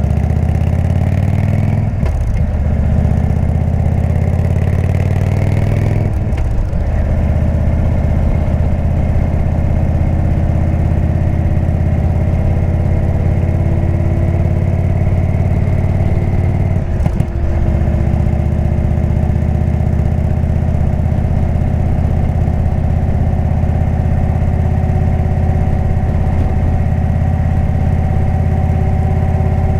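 Indian V-twin motorcycle engine with a Jekill & Hyde exhaust, ridden under power: it pulls up through the gears with brief breaks at the shifts about 2, 6 and 17 seconds in, then runs fairly steadily.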